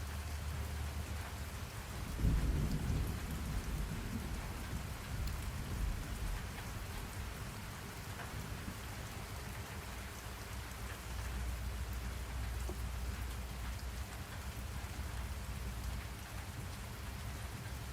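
Steady rain falling, with a low roll of thunder about two seconds in that swells and fades over the next couple of seconds.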